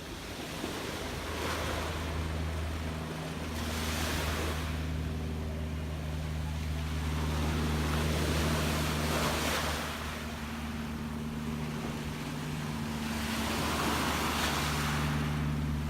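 Gentle sea waves washing in, the surf swelling and fading every few seconds, over a steady low hum.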